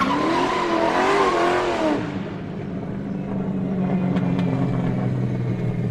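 Car engine revving for about two seconds, then running steadily with a low drone.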